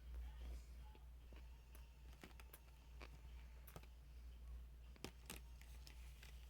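Near silence with a steady low hum and faint scattered clicks, about a dozen, from someone eating sushi: small mouth and chewing clicks and light knocks.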